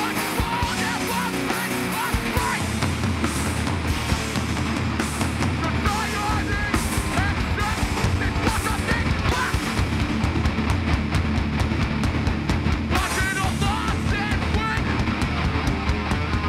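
Live hardcore band playing loud and fast: distorted electric guitars, bass and pounding drums, with the low end of the drums and bass growing heavier about six seconds in.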